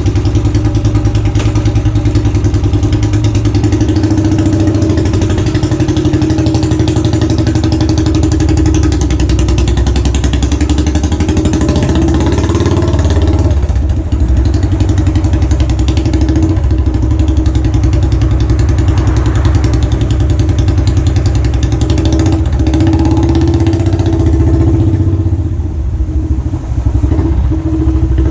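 Royal Enfield Classic 500's single-cylinder engine running steadily through its exhaust, with an even thudding beat. The beat dips briefly about halfway through and turns uneven near the end.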